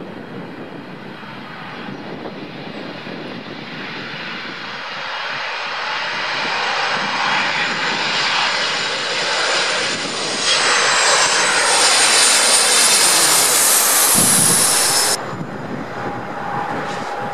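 Airliner's engines passing low overhead on landing approach: the noise builds steadily and is loudest for a few seconds while the pitch falls, then cuts off suddenly near the end.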